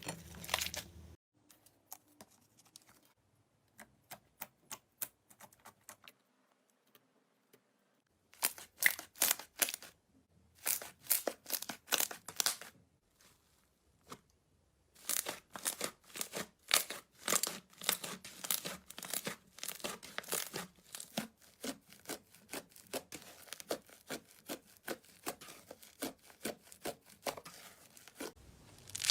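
Slime being squeezed and stretched, making runs of fast crackling clicks and pops, in several separate stretches with quiet gaps between.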